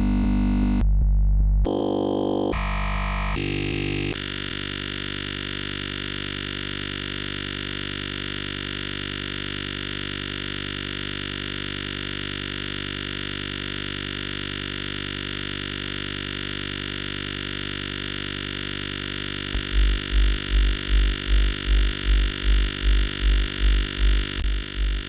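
Software synthesizer sounds auditioned in a DAW while designing a raw hardstyle kick: a few short, changing synth tones, then one long, steady, buzzy synth note. Near the end a deep repeating pulse, about three hits a second, joins it.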